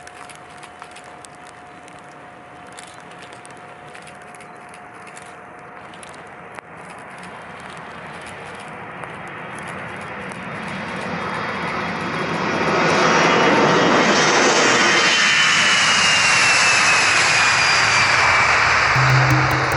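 Aircraft engines growing louder as the plane comes close, then a loud, steady roar, with a high whine that falls in pitch over several seconds as it passes.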